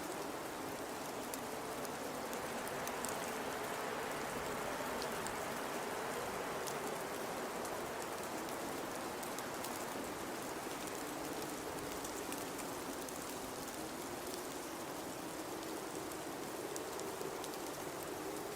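Blizzard wind blowing steadily, its low howl wavering, swelling and easing over several seconds, with faint scattered ticks over the top.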